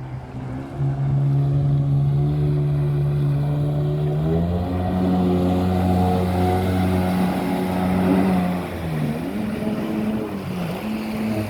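Sea-Doo SP 580cc two-stroke jet ski engine running, its revs stepping up about a second in and again about four seconds in, then dipping briefly twice near the end.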